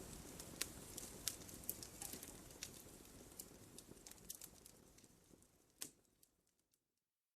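Wood fire in a fireplace crackling with scattered sharp pops over a low rumble. It fades away to silence near the end.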